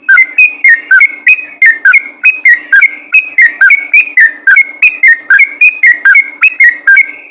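Yellow-vented bulbul (trucukan) singing rapidly and without pause: short, loud whistled notes repeated about three times a second, in the fast, continuous 'ropel' style that keepers prize.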